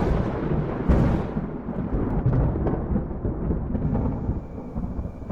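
Thunder rumbling, with a louder surge about a second in, then slowly dying away.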